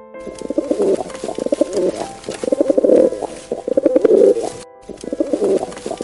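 Feral pigeons cooing in a series of low coos, each about a second long, with a brief gap about three-quarters of the way through.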